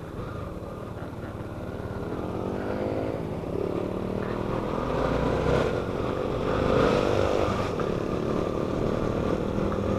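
Motorcycle engine accelerating: its pitch climbs, drops at a gear change about three seconds in, then climbs again.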